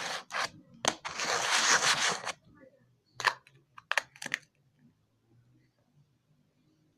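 Handling noises: a few sharp clicks, a crinkling rustle lasting about a second, then a few more clicks, after which it goes quiet.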